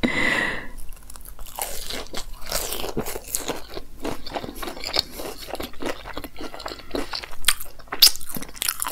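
Close-miked crunching and chewing of a crispy, double-fried cauliflower pakora (gobhi pakoda), a quick run of irregular crisp crackles as the batter coating breaks up in the mouth.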